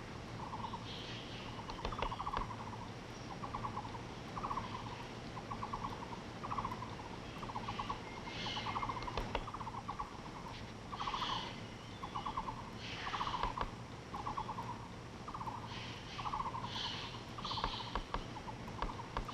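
A call repeating about once a second, each one a short rattle of quick pulses, with scattered higher bird chirps over forest background.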